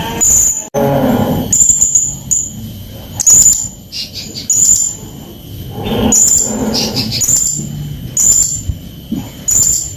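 Blue-crowned hanging parrot (serindit) calling in a run of short, shrill, high chirps, about one a second, with lower sounds under some of them.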